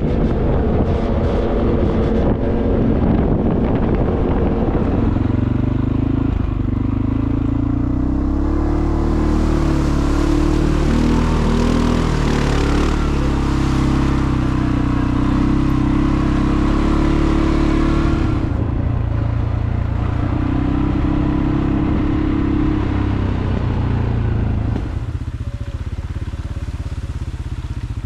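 Vehicle engine running while driving, its pitch stepping up and down as it changes speed. It drops somewhat quieter near the end.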